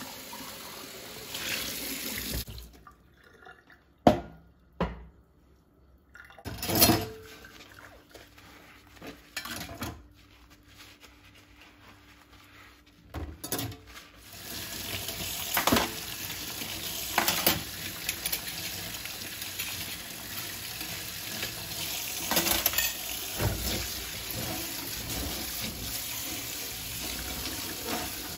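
Water running from a tap into a sink, with dishes knocking and clinking. The water stops for a stretch of about ten seconds that holds a few sharp knocks, then runs again steadily.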